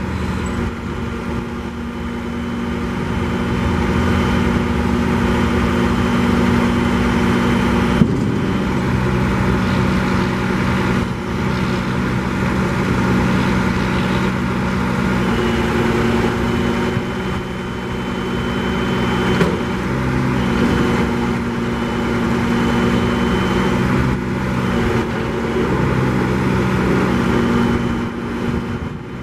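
2011 Freightliner M2 grapple truck's diesel engine running steadily, its pitch stepping up and down a few times.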